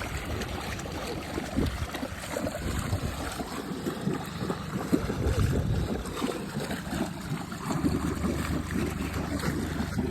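Muddy water sloshing and splashing around a Ford Ranger bogged to the doors in a flooded hole, with wind buffeting the microphone. A low steady hum joins about eight seconds in.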